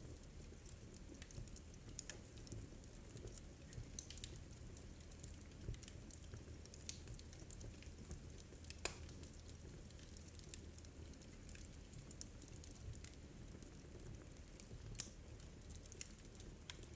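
Wood fire crackling in a fireplace: small irregular pops and snaps over a low, steady murmur of the burning, with a couple of sharper pops standing out.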